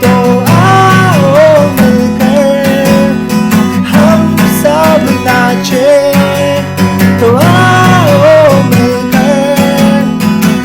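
Acoustic guitar strummed in a steady rhythm, with a melody line gliding over the chords twice: an instrumental passage of a Hindi worship song.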